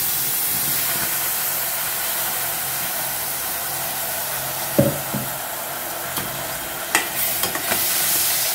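Ghee and coarsely ground banana frying on a low flame in a stainless steel pot, a steady sizzle as the mixture is stirred, with a couple of sharp knocks of the spatula against the pot about five and seven seconds in.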